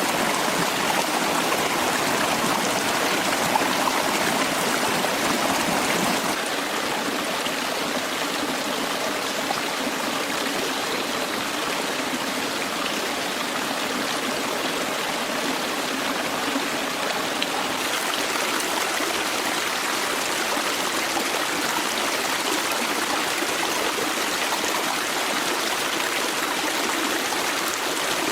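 Forest stream flowing steadily, an even rush of water. About six seconds in it steps down a little, becoming slightly quieter and thinner in the highs.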